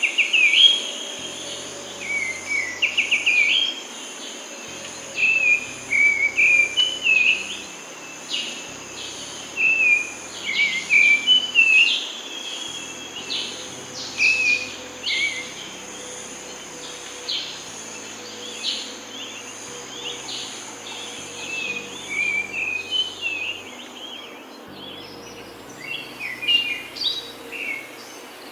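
Small birds chirping, with many short, quick calls that often slide downward, repeated in clusters. Under them is a steady, high, pulsing insect drone that stops a few seconds before the end.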